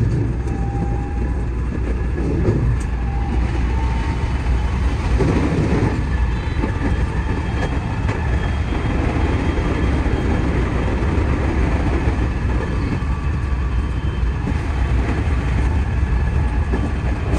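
JR West 207 series electric train running along the line, heard from the driver's cab: steady running noise of wheels on rails with a low rumble.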